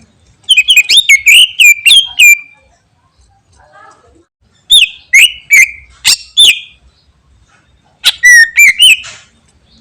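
Cucak ijo (green leafbird) singing loudly in three quick bursts of sharp, slurred whistles that swoop up and down: one about half a second in, one near the middle, one near the end.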